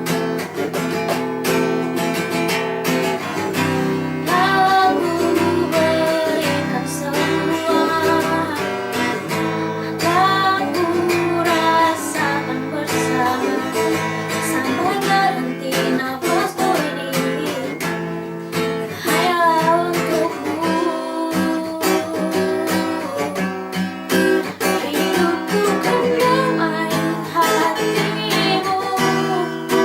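A voice singing a slow melody over strummed acoustic guitar chords.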